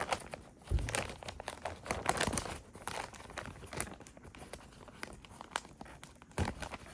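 Crinkling and rustling of material being handled, with scattered small clicks and knocks at irregular intervals.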